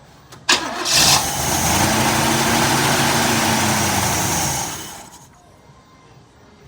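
1979 Chevy Nova engine catching about half a second in, running for about four seconds with the revs rising slightly and then sagging, and dying out. It is a first start after seven years with a mechanical fuel pump that isn't working, so the engine starves of fuel and stalls.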